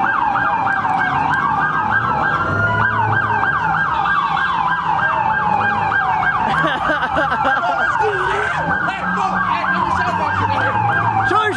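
Several police sirens sounding at once: one on a fast yelp of about four sweeps a second, another on a slow rising and falling wail, over a low vehicle rumble.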